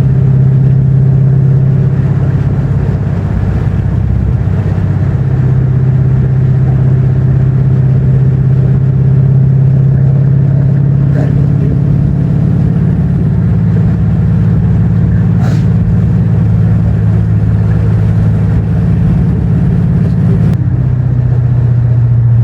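Dodge Charger's 5.7-litre Hemi V8 cruising at moderate speed, a steady low drone with tyre and road noise heard inside the cabin; its pitch shifts slightly a few times with the throttle.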